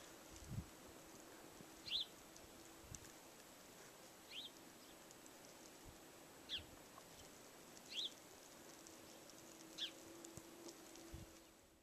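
A bird calling: five short chirps that fall in pitch, about two seconds apart, over faint steady outdoor background noise.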